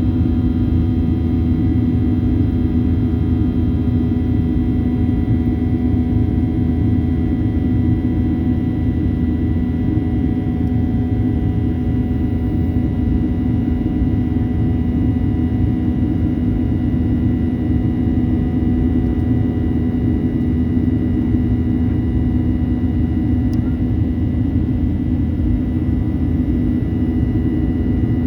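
Steady cabin noise inside a Boeing 737-800 in flight: engine drone and rushing air, with a constant low hum and a few steady higher tones.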